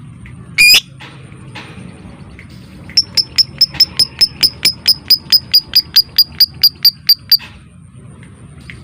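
Lovebird calling: one loud shrill call just under a second in, then a rapid, even run of about twenty sharp high chips, about five a second, lasting some four seconds. This is the 'ngetik' (typing) call.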